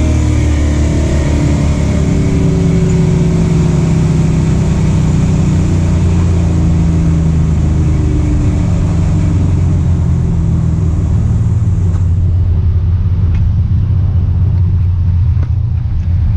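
Truck engine rumbling steadily at low revs, heard from inside the cab, its pitch drifting slowly. The higher hiss fades about twelve seconds in.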